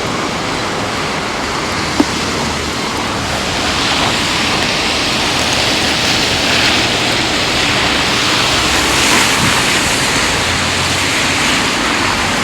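Heavy rain falling in a steady hiss, growing a little louder about four seconds in. A single sharp click about two seconds in.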